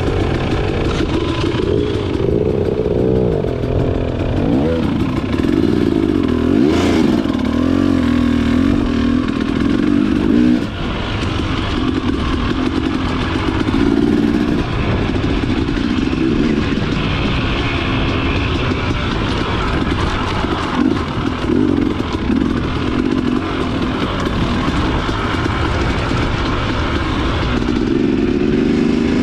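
Dirt bike engine running under way, its pitch rising and falling continually as the throttle opens and closes.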